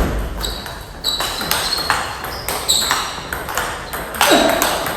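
Table tennis rally: the celluloid-type plastic ball clicking off rackets and table in quick succession, several hits a second, with the hall's echo.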